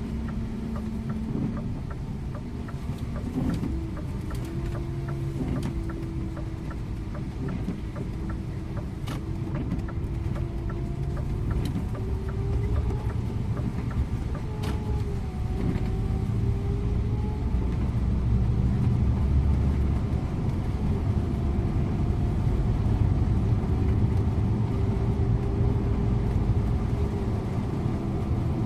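Scania InterLink bus driving, heard from the driver's seat: diesel engine and drivetrain running over road and tyre rumble. A whine jumps in pitch in the first few seconds, then climbs slowly as the sound grows louder.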